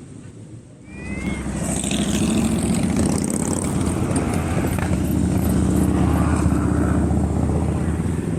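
A motorcycle engine close by: it comes in loud about a second in and keeps running steadily.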